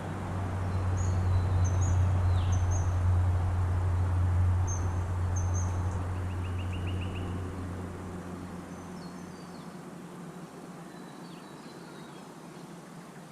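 Birds chirping with short, high calls and a brief trill about six seconds in, over a low steady hum that fades away over the first eight seconds.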